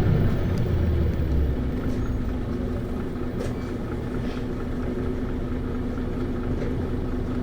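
Isuzu Erga city bus (PKG-LV234Q2) diesel engine and drivetrain heard from inside the bus while it drives. The engine sound eases off over the first couple of seconds, then settles into a steady running drone with a steady hum.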